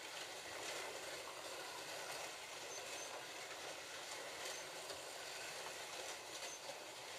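Several slot cars running round a plastic track together: a steady whir of small electric motors and cars on the track, with a few faint short high beeps.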